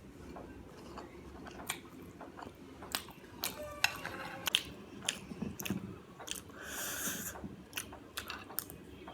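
Close-miked chewing and mouth sounds of a person eating chow mein, fried rice and Manchurian, with scattered sharp smacks and clicks. There is a short noisy burst about seven seconds in.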